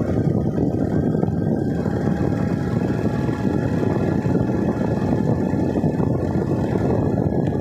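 Vehicle running steadily while riding: a constant low engine and road rumble.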